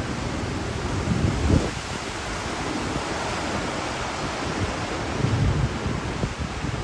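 Hurricane wind blowing hard and steadily, with gusts buffeting the microphone as low rumbles about a second and a half in and again near the end.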